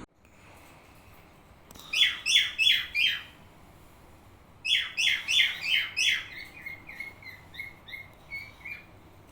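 Cockatiel calling. There is a run of four loud, sharp chirps, each falling in pitch, about two seconds in. A second run of about six follows near the middle, then a string of softer, shorter notes that fade out.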